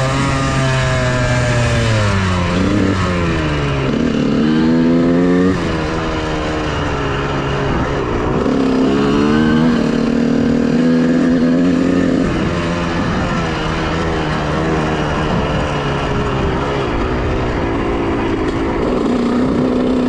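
Honda CR125R's 125 cc two-stroke single-cylinder engine being ridden, revving up and dropping back repeatedly as it pulls through the gears, with sudden falls in pitch at the shifts. The rider reads the spark plug as showing a mixture running rich rather than lean.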